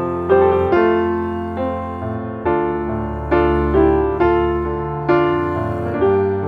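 Slow, gentle piano music: single notes and chords struck about once every half second to a second, each ringing and fading over a held bass.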